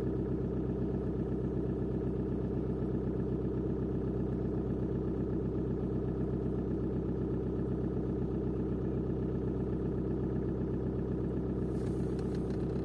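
VW Golf 4's 1.9 TDI four-cylinder turbodiesel idling steadily with a diesel clatter, still cold after starting from a few days' standing. A brief faint hiss near the end.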